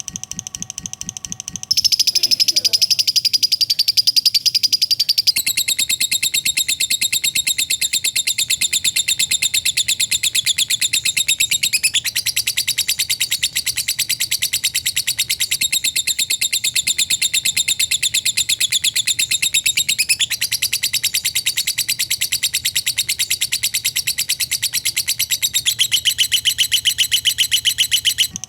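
Lovebird 'ngekek' song: a long, very fast chattering trill of high-pitched chirps, run together almost without a break. It shifts suddenly in tone a few times, like joined recordings.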